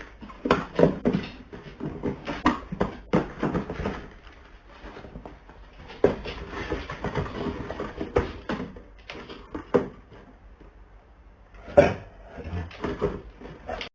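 Irregular knocks, taps and clatter, coming in clusters with short gaps between.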